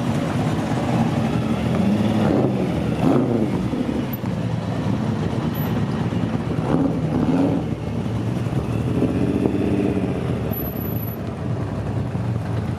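Racing car engine running, its pitch rising and falling several times as it is revved and eased off.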